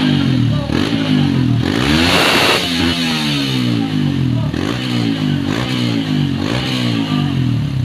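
Honda CRF dirt bike single-cylinder engine, on its stock muffler, being revved in repeated throttle blips, the pitch rising and falling about once a second. The highest, loudest rev comes about two seconds in.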